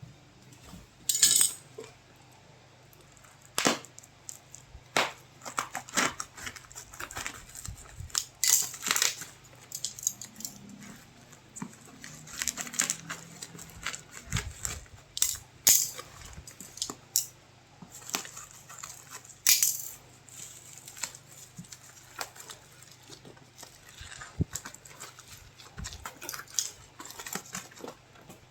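Phone packaging being handled during an unboxing: irregular clicks, taps and short rustling scrapes of cardboard and plastic, over a faint steady hum.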